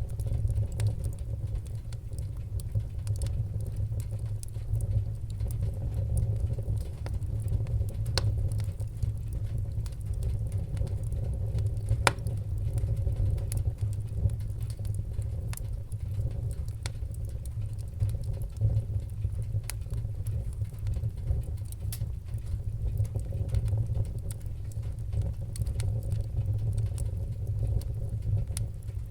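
Wood fire burning in a fireplace: a steady low rumble of the flames with scattered sharp crackles and pops of the burning wood, one louder pop about twelve seconds in.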